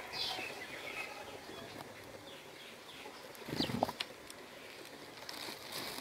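Small birds chirping outdoors in scattered short calls, with a brief low thump a little past halfway through.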